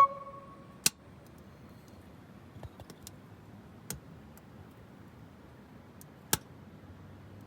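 Wood fire crackling: a few sharp, irregular pops over a low steady hiss. It opens with a brief ringing metallic clink.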